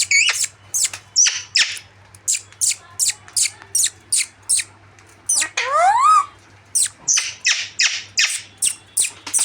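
Parrots screeching: a rapid run of short, harsh calls, about two to three a second, with one longer rising call about six seconds in.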